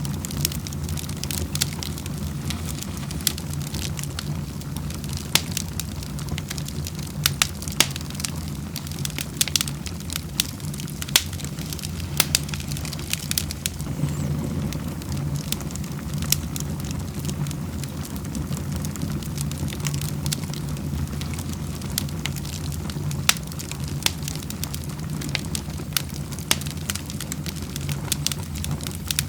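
Wood fire in a fireplace crackling: irregular sharp snaps and pops over a steady low rumble of burning.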